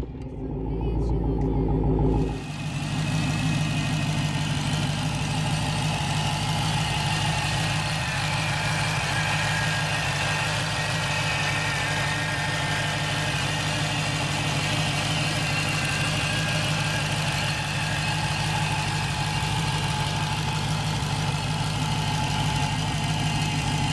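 Dodge Challenger SRT Hellcat's supercharged 6.2-litre HEMI V8 idling steadily. A deep, low rumble fills the first two seconds before the steady idle settles in.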